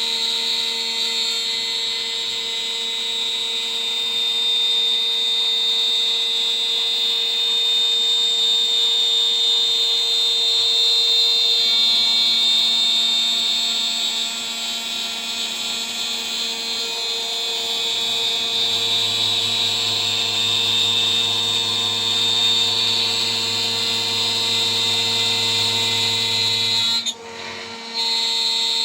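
DIY CNC router's spindle spinning a 3 mm three-flute end mill at about 14,000 RPM while milling, a steady high-pitched whine with a lower hum. The sound dips sharply for about a second near the end, then comes back.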